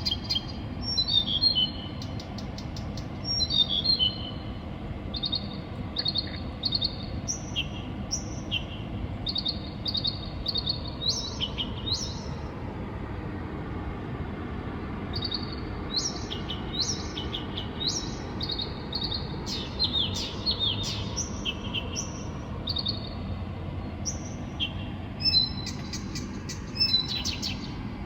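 Songbird singing at night: a nonstop string of varied high whistled phrases, some rapid runs of repeated notes, some falling series, with a short lull about halfway. A steady low background hum lies under it.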